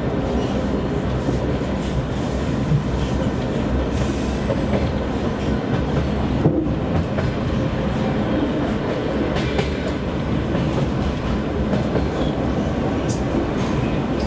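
Passenger train running at speed behind a TEP70 diesel locomotive: a steady rumble of wheels on the rails, with a few light clicks from the rail joints over the low drone of the locomotive's diesel engine.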